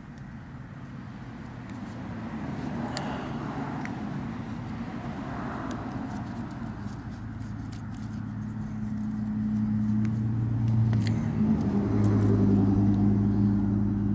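A motor vehicle's engine running with a steady low hum that grows gradually louder, with a few light clicks of handling.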